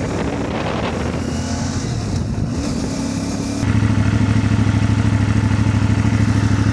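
CF Moto 450 MT's parallel-twin engine running while the bike is ridden. About three and a half seconds in, the engine note turns louder and settles into a steady, fast, even pulse.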